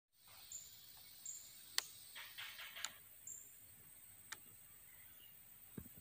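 Faint outdoor ambience: small birds giving short, high chirps every second or so. A few sharp clicks stand out, the loudest just under two seconds in, along with a brief rapid rattle a little after it.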